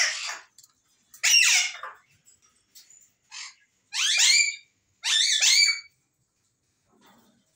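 Grey parrot calling: a run of about five loud squawking calls, each bending and dropping in pitch, with gaps between them.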